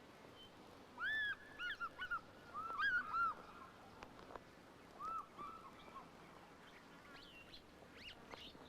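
Birds calling in short, repeated arching calls: a cluster about a second in, more around three seconds and near five seconds, and a few higher chirps near the end, over a faint steady hiss.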